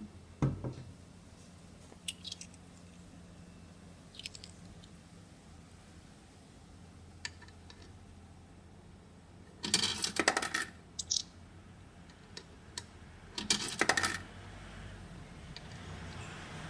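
Coins dropping and rattling into the coin slot of a coin-operated sneaker washing machine, in two main clattering runs with a few single clicks and a thump before them. A low hum comes up near the end.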